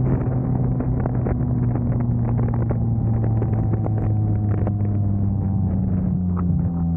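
2000 Honda Civic's D-series four-cylinder engine running while driving, its note holding steady and then easing slowly lower in pitch, with light clicks and knocks over it.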